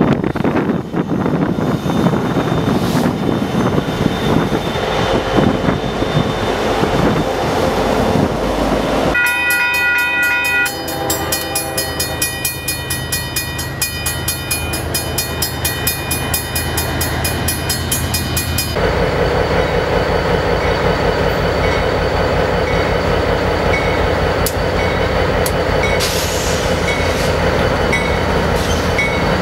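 Union Pacific diesel freight locomotives running past, with wind on the microphone for the first several seconds. A locomotive air horn sounds a loud chord starting about nine seconds in. Later a long freight train rolls by with steel wheels running on rail.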